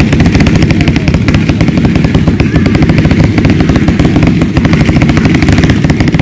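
Fireworks going off in a rapid barrage: a loud, unbroken rattle of sharp crackling pops, many each second.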